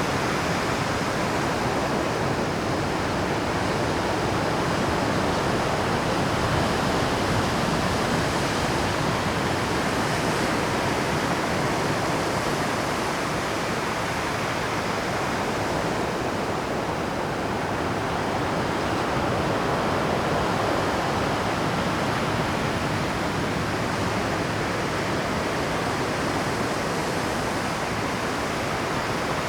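Rough Pacific surf breaking continuously on rocks, a dense, steady wash of water that swells slightly now and then without distinct single crashes.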